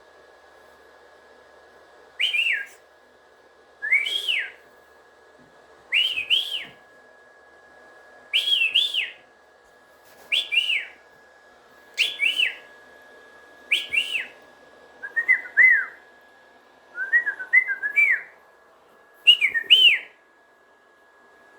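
Young cockatiel giving repeated whistled contact calls, about one every two seconds. Each is a short rising-then-falling whistle, often doubled, with a few lower warbled ones near the end.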